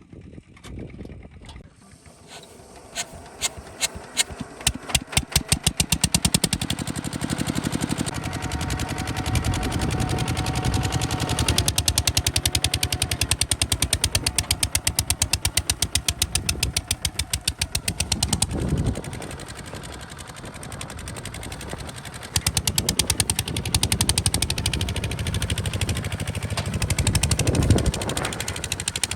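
Single-cylinder diesel engine of a Kubota RT 140 DI tractor firing in slow, separate beats that quicken into a fast, even run. About two-thirds of the way through it slows and quietens for a few seconds, then picks up again.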